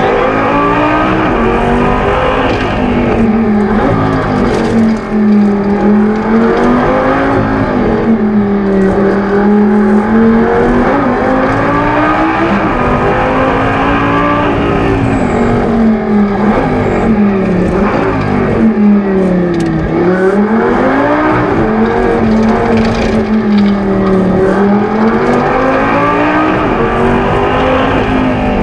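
Lamborghini Gallardo LP 570-4 Super Trofeo's naturally aspirated 5.2-litre V10, heard loud from inside the cabin while it is driven hard on track. The revs climb and fall over and over as the car accelerates and slows for the corners, dropping lowest about two-thirds of the way through.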